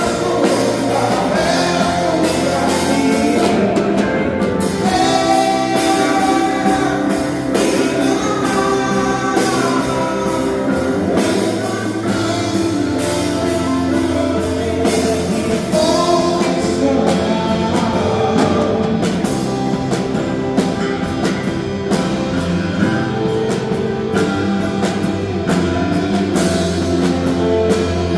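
A live band plays a worship song, with a drum kit, guitar and bass under a sung or played melody line.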